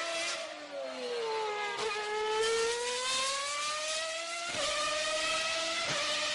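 Kids' electric Batman toy car running, a whining engine-like tone that sinks and then climbs slowly in pitch, dropping abruptly about four and a half seconds in.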